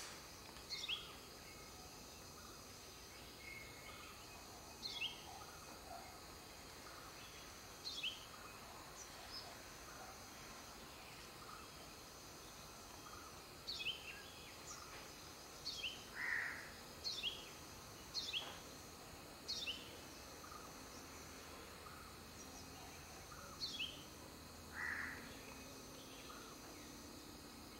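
A small bird's short, high chirps, each sliding quickly downward, about a dozen at uneven gaps, most bunched together in the middle, over a faint, steady, high insect hum.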